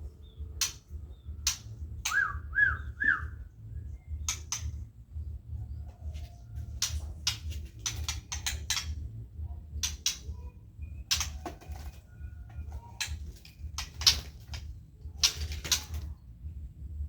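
A bird gives three quick chirping notes about two seconds in, among many scattered sharp clicks and taps, over a steady low hum.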